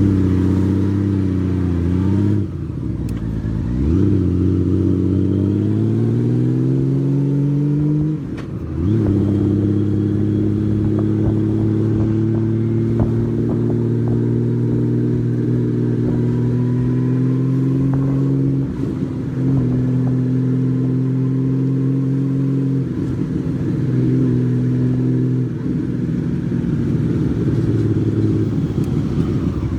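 Honda Valkyrie's flat-six engine under way, heard from a phone mounted on the bike: it pulls up through the gears with a rising pitch and brief breaks at the gear changes about two and eight seconds in, then runs at a steady cruising note with short throttle lifts near the end.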